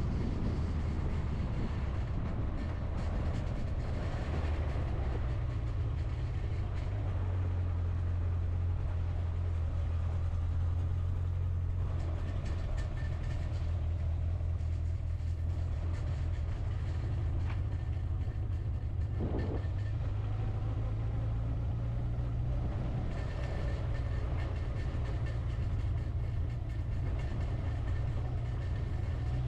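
Steady low drone of a motorhome's engine and tyres on the road while driving, heard from inside the cab.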